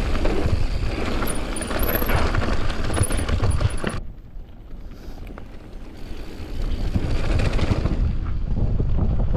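Mountain bike riding down a rough dirt trail: tyres rumbling and the bike rattling over bumps, with wind on the microphone. About four seconds in the rattle drops away sharply for about two seconds, then comes back just as loud.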